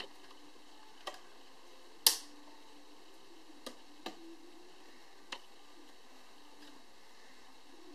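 A few sharp, isolated clicks and taps of small parts being handled while an iPod touch is taken apart, the loudest a single snap about two seconds in, over a faint steady background hum.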